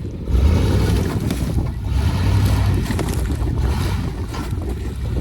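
1996 GMC K1500's 5.0-litre Vortec V8, fitted with a custom exhaust, running steadily as the truck drives, mixed with rough driving noise.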